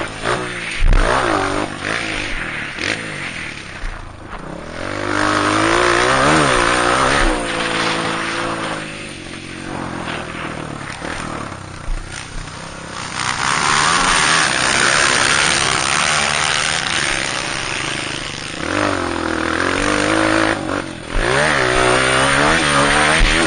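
Honda CRF230F dirt bike's single-cylinder four-stroke engine revving up and falling back again and again as it is ridden around a dirt track, with a few sharp thumps.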